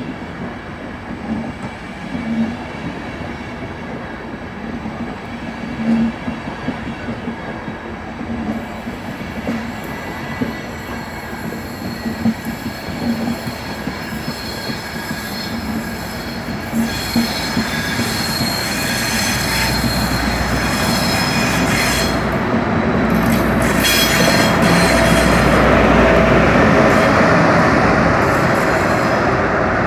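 Intercity passenger train rolling past a station platform: its wheels knock over rail joints, with a thin steady wheel squeal. The sound grows louder and fuller in the second half as the electric locomotive at the rear goes by.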